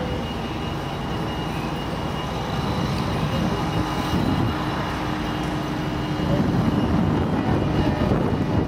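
Diesel passenger train approaching, a steady engine rumble that grows louder about two-thirds of the way through.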